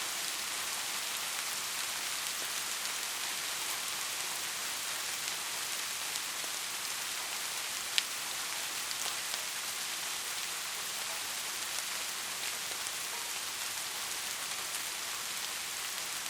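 Steady rain falling, an even dense hiss of drops, with one sharp tap about halfway through.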